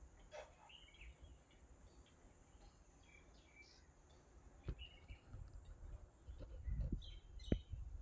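Faint, scattered short bird chirps over low background noise, with a few sharp clicks and a low rumble in the second half.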